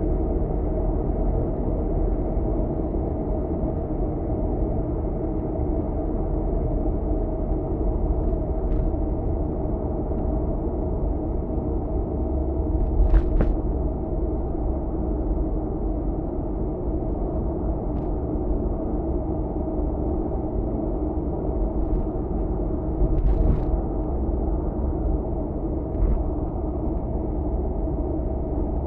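Steady road and engine noise of a car cruising on an expressway, heard inside the cabin. A few brief knocks break through: a quick double knock about halfway through and another later on.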